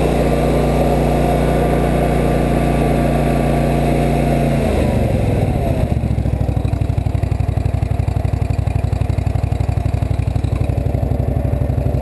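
Freshly rebuilt Kohler CV745 24 hp V-twin fuel-injected engine on a Hustler mower, running steadily at a higher speed. About five seconds in its pitch falls as it slows to an idle with an even pulsing beat.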